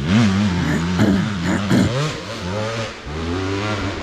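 Two-stroke 300 dirt bike engine revving hard, its pitch rising and falling several times in quick bursts, then settling to a steadier, lower note for the last second or so.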